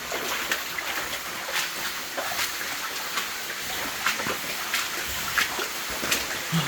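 Water splashing and sloshing: irregular small splashes over a steady rush of water in the cave.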